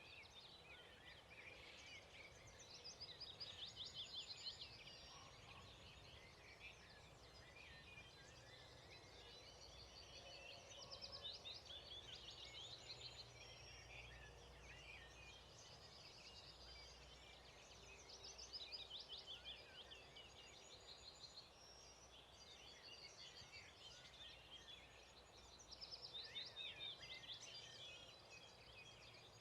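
Songbirds singing at dawn, several birds giving faint, quick trilling phrases that swell every few seconds.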